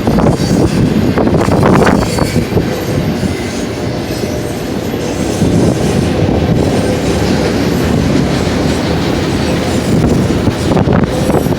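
Union Pacific manifest freight train's cars rolling past: a loud, steady rumble of steel wheels on rail with repeated sharper clacks over the track.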